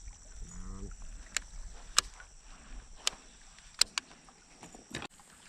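A handful of sharp, separate clicks and knocks, about five spread over a few seconds, over a steady faint high-pitched tone; a short low hum of a voice near the start.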